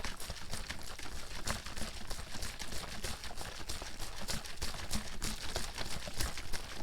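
Water bottle being shaken: liquid sloshing inside, with a rapid, irregular run of knocks and clicks.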